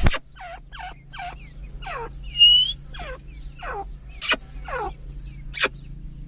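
Grey francolins (dakhni teetar) calling: a quick series of short notes that drop in pitch, about two a second. A few sharp clicks and one brief rising whistle about two and a half seconds in sound among them, over a steady low hum.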